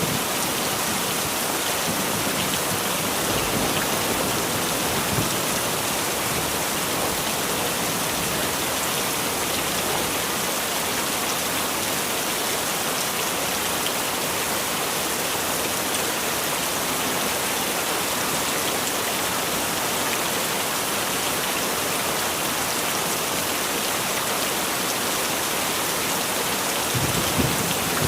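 Heavy rain falling steadily, a dense even hiss, with a brief low rumble near the end.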